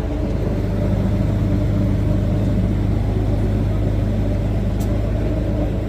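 Pulling truck's engine running with a steady, deep drone, holding a constant note without clear revving.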